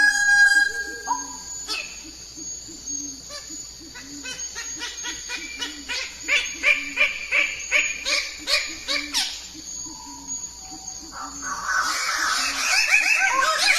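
Birds calling: a rapid series of repeated notes, about three a second, grows louder through the middle, then a dense burst of overlapping calls comes near the end.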